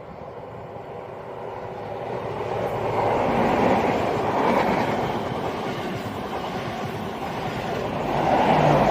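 The Midland Pullman HST set and a Class 390 Pendolino electric train pass each other through the station at speed, with the noise of wheels on the rails. The sound builds over the first three seconds and swells again near the end.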